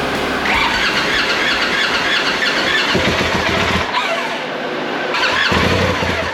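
Side-by-side's engine revving with a high squeal that glides up and down, in short clips that cut abruptly a couple of times.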